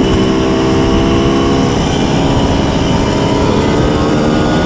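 Simson S51 moped's tuned 90 cc reed-valve two-stroke engine running under way. Its pitch eases down slightly in the first second or two, then holds steady over a heavy low rumble.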